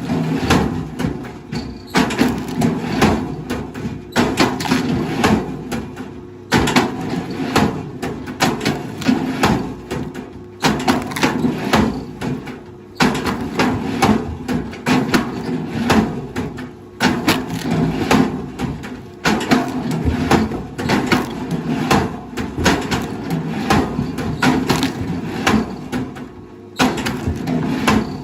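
A heavy machine's engine running with a steady hum while wood cracks and crunches in many irregular knocks and snaps. The sound breaks off and starts again abruptly every few seconds.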